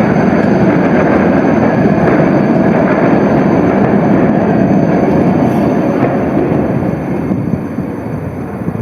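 Tram running past, a loud steady rolling rumble that dies down over the last couple of seconds.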